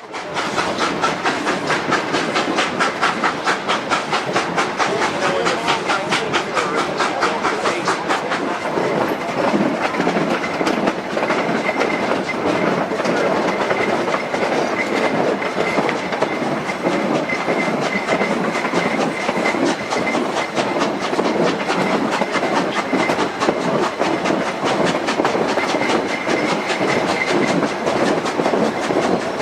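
Narrow-gauge K-27 Mikado steam locomotive No. 463 and its train running, with a quick, even beat over the clatter of the wheels on the rails. A faint high steady tone comes and goes from about ten seconds in.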